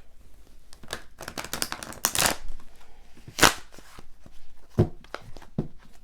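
Tarot cards being shuffled and handled: a quick run of riffling card flicks about two seconds in, then separate sharp snaps of cards, the loudest a little past the middle.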